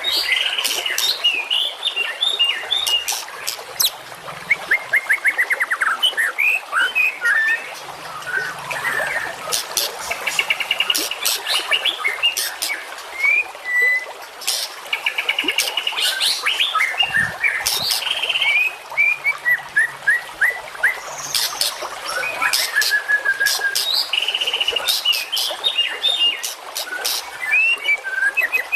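Recorded songbird song from a masteran birdsong training track: a dense, unbroken run of rapid trills, sharp whistled notes and clicking calls, one after another.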